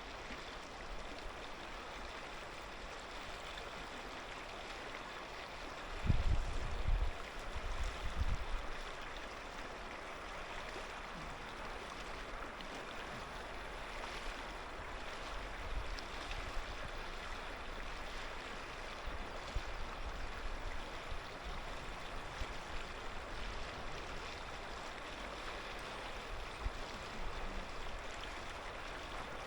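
Clear mountain river flowing and babbling steadily over its stony bed. A few brief low rumbles come about six to eight seconds in.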